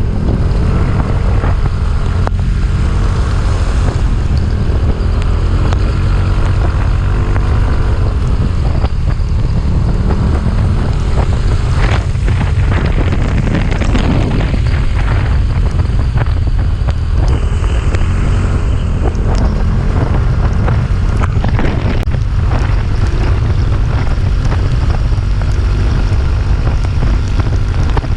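Heavy wind buffeting the microphone over a motorcycle engine running and changing pitch as it climbs uphill.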